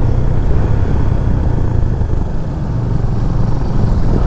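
Motorcycle engine running steadily while riding, with a constant low rumble of engine and wind noise on the rider's microphone.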